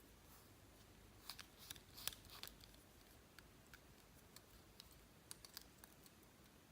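Faint, sticky clicks and small pops of slime being squeezed and worked by hand, a cluster of them about one and a half to two and a half seconds in and a few scattered ones later, over near silence.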